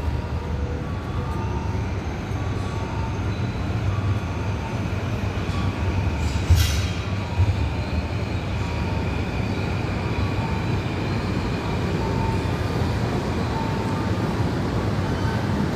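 Tobu Tojo Line express train running, heard from inside the carriage: a steady rumble of wheels on rail with a faint motor whine, and a brief sharper clatter about six and a half seconds in.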